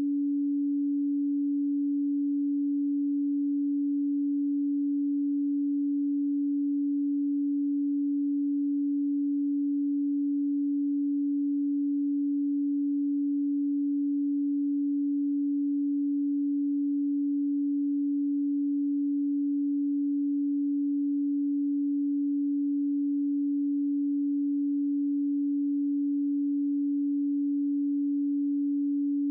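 A pure 285 Hz sine tone, held steady at one pitch and level: a Solfeggio frequency tone for meditation listening.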